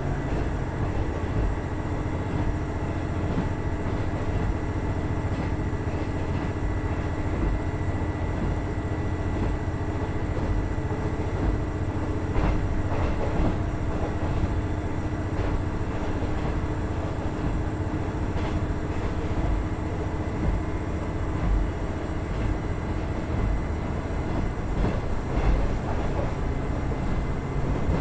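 A KiHa 110-series 200-number diesel railcar running along the line: its Cummins DMF14HZA diesel engine and its wheels on the rails make a steady low rumble, with a faint steady whine on top and a few light knocks.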